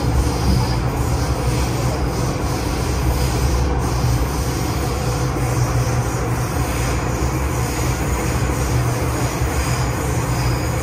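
MTR M-Train electric multiple unit running along the line: a steady, unbroken rumble of wheels on rail and traction equipment.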